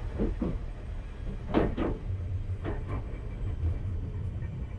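Enoden electric train running along the line: a steady low rumble with three pairs of short clacks, the wheels crossing rail joints.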